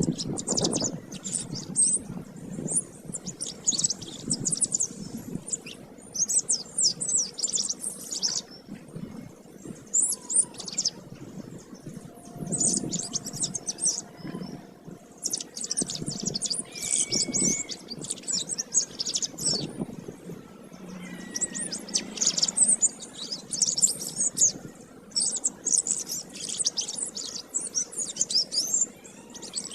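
Domestic canary singing: long runs of rapid, high trills and twittering phrases, broken by short pauses every few seconds.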